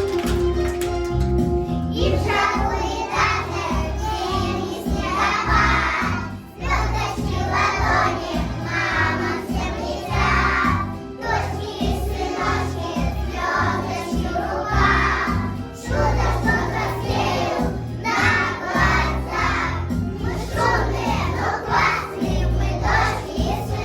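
A children's choir singing a song over a backing track with a steady beat, after about two seconds of instrumental music.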